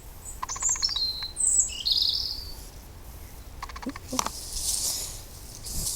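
Songbird singing: a quick run of high chirps and trills sliding down in pitch over the first two seconds or so.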